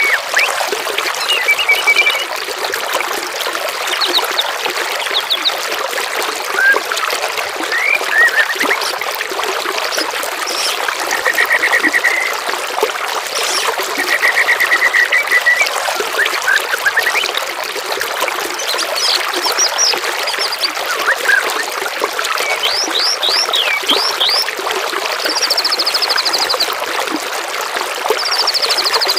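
Steady trickling, gurgling water with a mix of songbirds singing over it: short buzzy trills around the middle, then runs of rapid chirping sweeps and high, fast trills toward the end.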